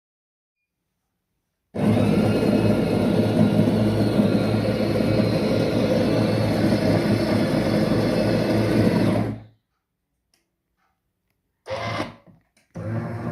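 Espresso machine's pump running with a steady low hum, starting suddenly about two seconds in and cutting off near the end, then a short burst and a restart.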